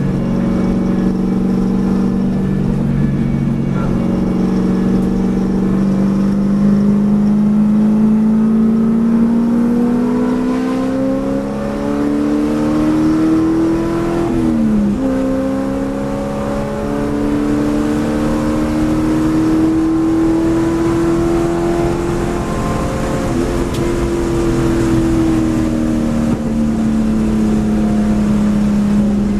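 Race car engine heard from inside the cabin, pulling hard under acceleration, its pitch climbing steadily. About halfway through, a quick upshift drops the pitch sharply before it climbs again. In the last few seconds the pitch sinks slowly as the car slows.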